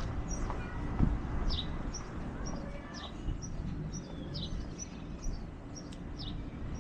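Small birds chirping repeatedly, short high chirps a few times a second, over a steady low outdoor rumble, with a brief low thump about a second in.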